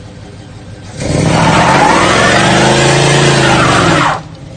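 Charger's Scat Pack HEMI V8 revved hard for about three seconds out of idle, the pitch climbing and then falling before it drops sharply back to idle.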